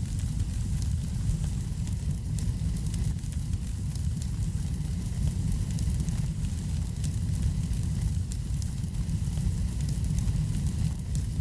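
Wood fire in a fireplace crackling, with frequent small pops over a steady low rumble.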